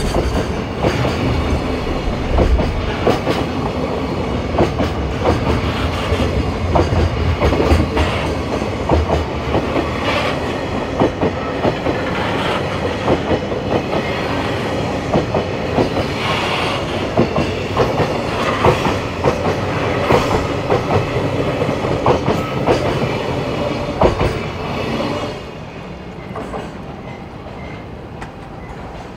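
A freight train hauled by a DD51 diesel locomotive rolling past, its wagons' wheels clicking rapidly over the rail joints. About 25 seconds in, the sound drops sharply as the end of the train goes by.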